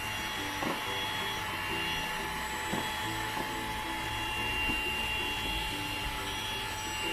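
Xiaomi Mi Vacuum Cleaner Mini, a handheld cordless vacuum, running steadily at its lowest suction setting with a high motor whine. A few short rattles come as moss is drawn in.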